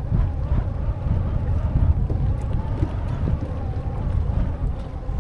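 Wind buffeting the microphone on a boat, a loud, uneven low rumble that cuts in suddenly at the start.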